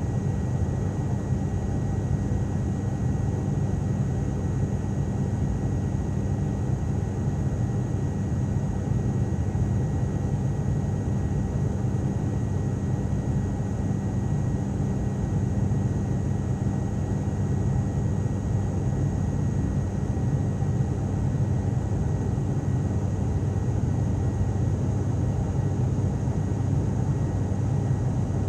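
Cabin drone of an ATR turboprop airliner in flight: a steady low rumble of the engines and propellers under an even rush of air, with a faint steady high tone.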